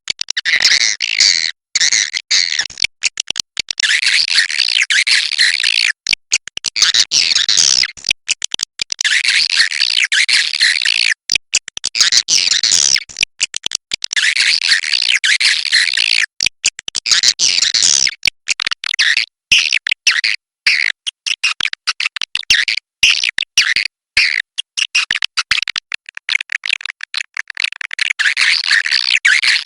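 Edible-nest swiftlets' chattering 'inap' (roosting) calls, the kind of recording played to draw swiftlets into a swiftlet house: many high-pitched twittering calls packed densely together, cut by frequent brief, abrupt gaps.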